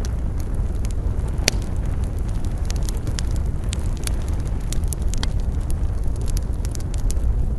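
Campfire burning, with frequent sharp, irregular crackles and pops over a steady low rumble; one louder pop comes about one and a half seconds in.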